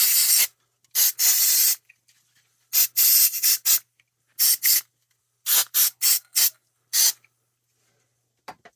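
Compressed air blown over a circuit board in about seven short blasts, drying off isopropyl alcohol used to clean away flux. The blasts stop about seven seconds in.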